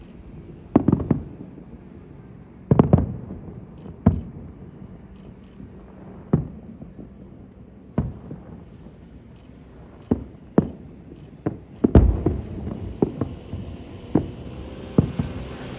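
Fireworks shells bursting overhead: a series of sharp bangs about one to two seconds apart, some with a short rumbling tail, coming faster as a quicker run of bangs in the second half.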